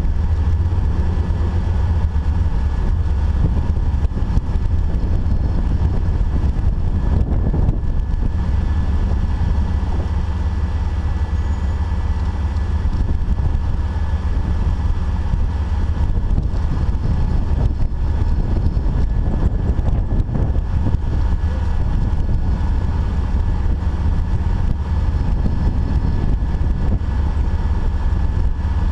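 Off-road Jeep's engine and drivetrain heard from an onboard GoPro, a steady low rumble with no marked revving.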